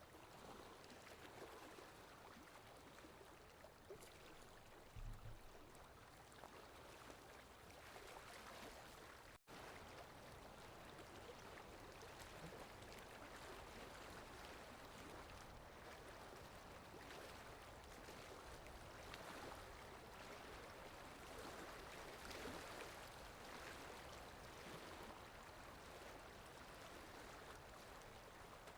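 Faint, steady water sound effect of a flowing stream, with a split-second dropout about nine seconds in.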